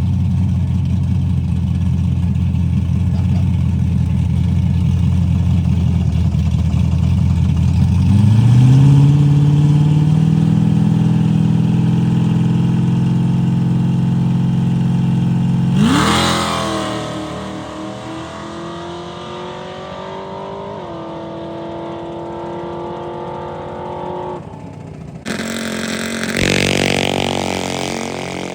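Car engine idling with a low steady note, stepped up to a higher held rev about eight seconds in. About halfway through a sudden loud burst is followed by engine notes sliding down in pitch, and near the end another engine sound falls in pitch the same way.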